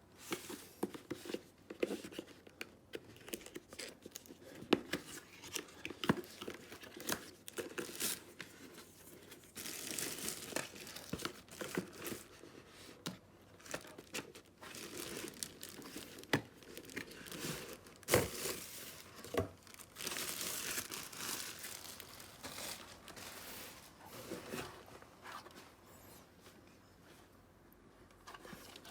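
Packaging being handled and opened: plastic wrapping crinkling and tearing, with irregular clicks and knocks, and two longer stretches of crackling.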